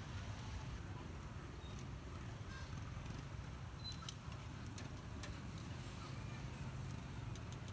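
Steady street-stall background noise: a low rumble under an even hiss, with scattered sharp ticks.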